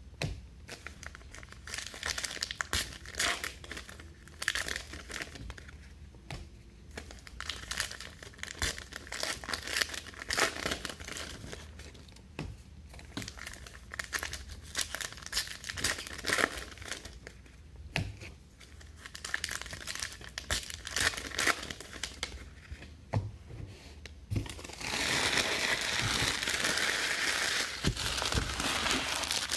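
Trading-card pack wrappers crinkling and tearing as packs are ripped open and handled, in quick irregular rips and rustles; from about 25 seconds in, a louder, continuous crinkling of wrapper.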